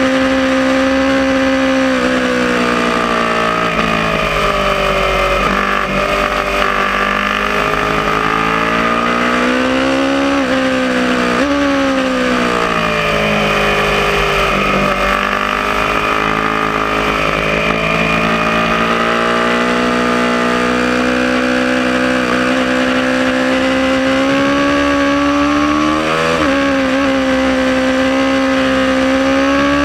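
Aprilia Tuono motorcycle engine at speed on track, its pitch climbing under throttle, dropping sharply at gear shifts about 10 s in, again a second later and near the end, and sliding down as it slows, with wind rush underneath.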